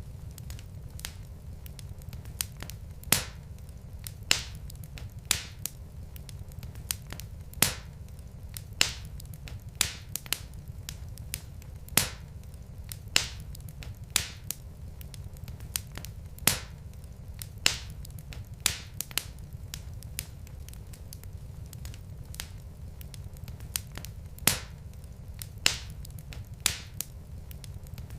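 Wood fire burning in a fireplace, crackling with irregular sharp pops about once a second and smaller ticks between them, over a steady low rumble. The pops thin out for a few seconds past the middle.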